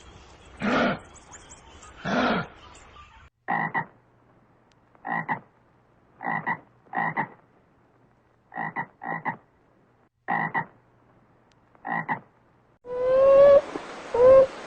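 A frog croaking in short, clipped calls about once a second, some in quick pairs. It is preceded by three louder, longer animal calls about a second and a half apart, and followed near the end by loud high calls that rise in pitch.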